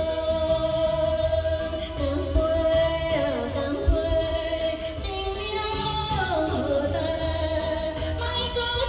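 A song: a solo voice sings a slow melody with long held notes that slide between pitches, over instrumental backing with a steady bass.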